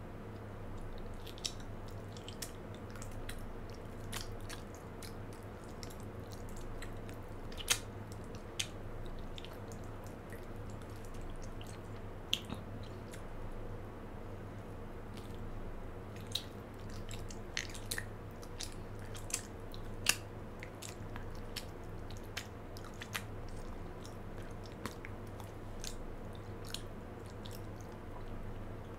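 Mouth chewing a chocolate-coated marshmallow bear close to the microphone: irregular wet clicks and smacks, a couple of them sharper and louder, over a steady low hum.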